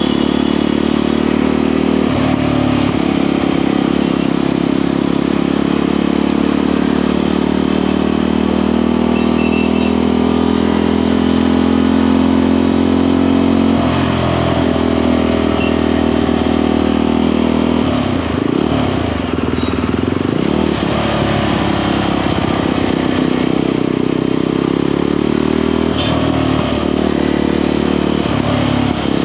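Motorcycle engine running while riding, its note holding steady then changing pitch several times as the revs change, with a dip and rise in revs around the middle.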